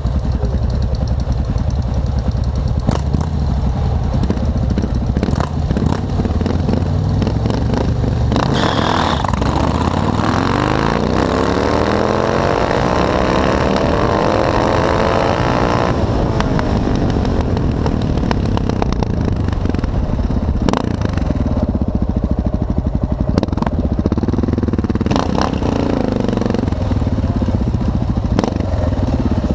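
Motorcycle engines at a drag strip: a steady low idle, and about a third of the way in a bike accelerating hard, its engine pitch rising for about seven seconds before cutting off. Later the engine note wavers up and down with light revving.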